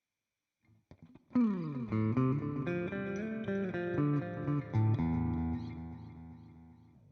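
Electric guitar, a Fender Jazzmaster, played through a Nux Time Core delay pedal. About a second in, a note slides down in pitch, a few notes follow, and near the middle a chord is struck that rings and fades away by the end.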